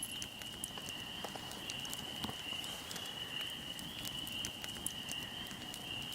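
Fire burning with irregular crackles and small pops over a low hiss. A steady high-pitched tone, rising and falling slightly in strength, runs underneath.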